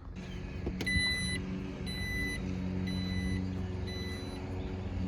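A vehicle's electronic warning chime beeping four times, about once a second, over a steady engine hum, with a click just before the first beep.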